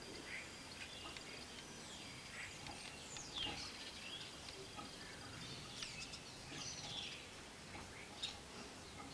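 Birds chirping now and then over a faint background hiss: short, high calls, mostly falling in pitch, a few in quick runs.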